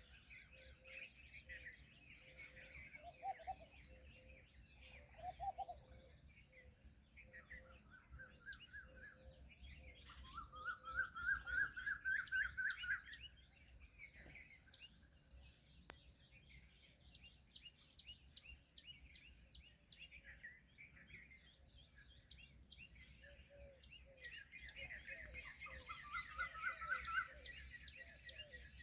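Many small birds chirping and twittering together, with a loud run of rapid, rising chirps about ten seconds in and another near the end.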